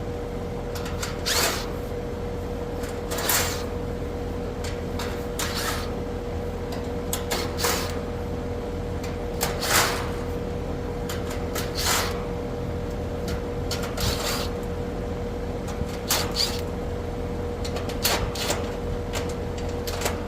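Short scrapes, clanks and knocks of hand tools and sheet-metal panels on a Goodman air-conditioning condenser being opened up, one every second or two, over a steady hum with a single held tone.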